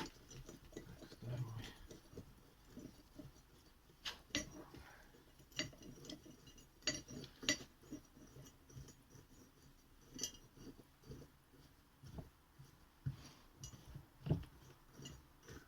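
Scattered light metallic clicks and clinks of a spanner and bolts on a removed VAZ-2115 steering rack as its tie-rod mounting bolts are undone.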